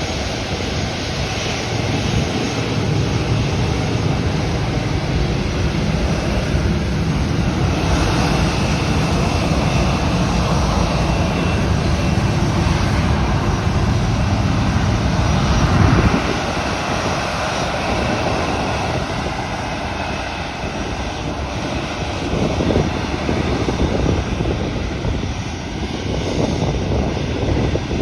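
Airliner engines running loud as the aircraft passes, the noise building to a peak about halfway through and then easing off, with a faint high whine in the middle.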